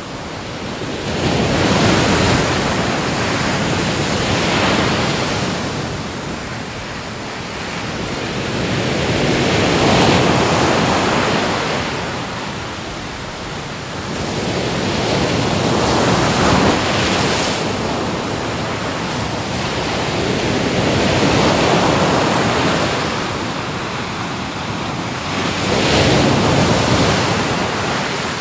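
Ocean waves breaking and washing up the shore: a steady rush of surf that swells and falls back every few seconds.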